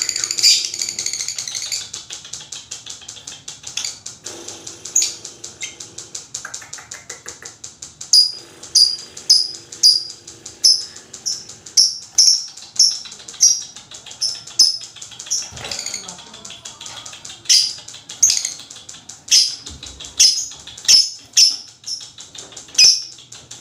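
Lovebird calling: a fast, continuous chattering trill (the long 'ngekek'), then from about eight seconds in a steady run of loud, shrill chirps, roughly one and a half a second.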